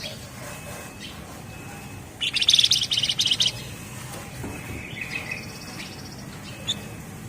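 Javan fulvetta (flamboyan, wergan jawa) singing a dense, rapid, rattling trill, its 'ngebren' song, for about a second and a half starting about two seconds in. Faint short thin whistles and a few soft chirps come around it.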